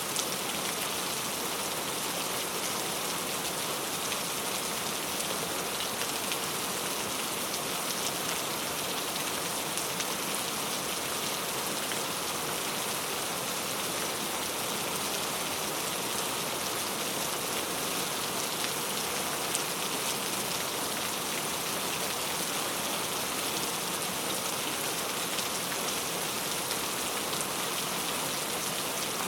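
Heavy rain falling steadily on mango tree leaves, a dense even patter with scattered sharper drop hits.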